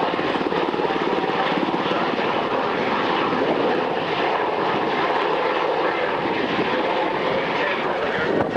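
Aircraft engine running steadily and loudly, with a fast, even pulsing.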